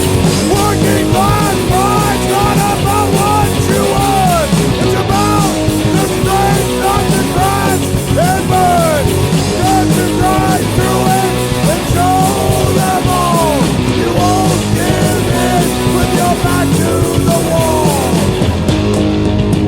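Skinhead rock 'n' roll / oi band playing an instrumental passage: distorted guitars, bass and drums, with a lead guitar line of repeated bent notes over the rhythm.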